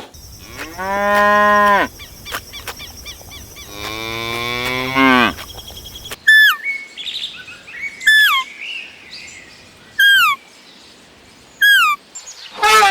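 A cow mooing twice in long, drawn-out calls. This is followed by a bird giving four short, high chirps that drop in pitch, spaced nearly two seconds apart, and a loud call from another animal starts just at the end.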